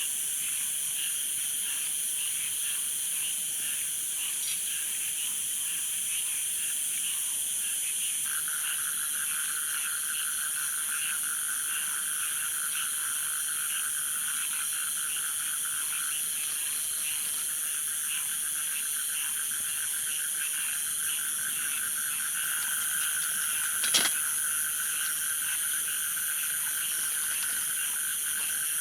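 Frogs calling in a steady chorus, with a rapid pulsing trill joining about eight seconds in. A single sharp click comes near the end.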